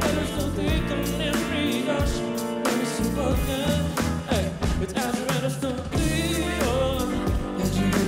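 A pop song performed live: a solo singer with wavering, held notes over a band with bass and a steady beat.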